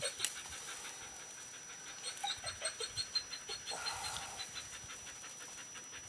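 A dog whimpering in short, falling whines, a few near the start and more about two seconds in.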